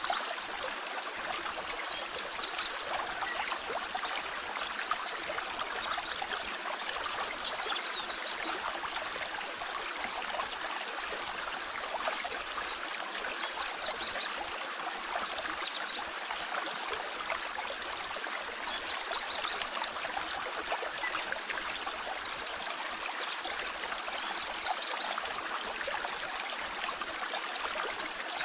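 A clear mountain stream flowing steadily over rocks. A bird gives a short high chirp about every five seconds.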